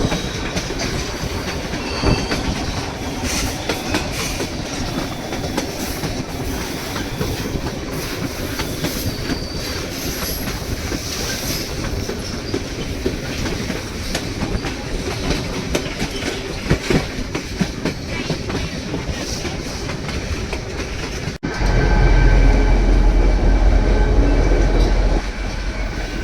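White Pass & Yukon Route narrow-gauge passenger train running over the rails: wheels clacking on the rail joints, with short high wheel squeals. About 21 seconds in, the sound breaks off sharply and a louder, deeper rumble takes over for a few seconds.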